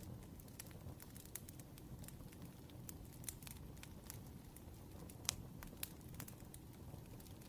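Wood fire crackling: a faint low rumble with scattered sharp pops, the loudest a little past five seconds in.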